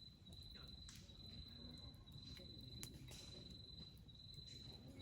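An insect trills steadily at one high pitch in phrases about a second long with short breaks. Under it a wood fire crackles faintly, with a couple of sharp pops.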